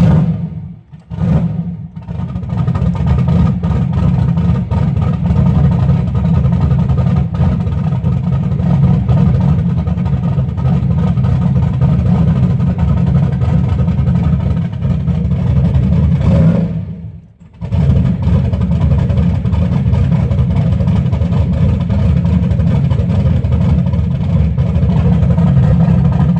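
Turbocharged LS V8 running steadily at a fast cold idle on a Microsquirt standalone ECU, running very rich on its cold-start enrichment. The sound drops out briefly twice, about a second in and again about 17 seconds in.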